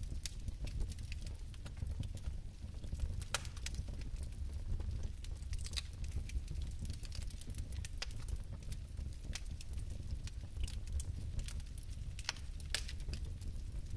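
Fire burning in a fireplace, with scattered sharp crackles and pops over a steady low rumble.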